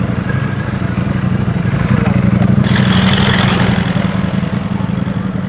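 Motorcycle engine idling steadily, with a brief rise of hiss about halfway through.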